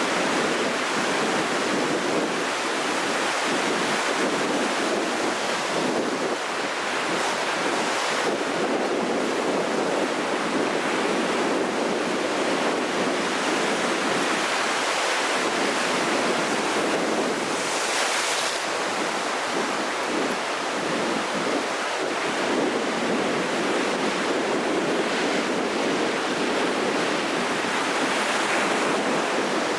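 Rough, storm-swollen sea: waves breaking and washing in a continuous steady rush of surf, with a brighter hiss of breaking water a little past the middle.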